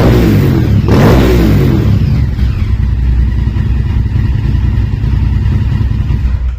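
Honda Varadero motorcycle's V-twin engine revved in quick throttle blips over the first two seconds, then settling to a steady idle.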